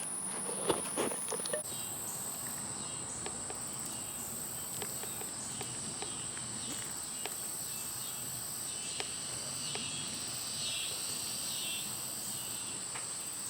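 Insects singing in a steady, high-pitched chorus, with a few footsteps in the first couple of seconds.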